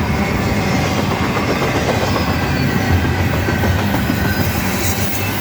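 Long freight train's cars rolling past at speed, a steady loud rumble of steel wheels on the rails.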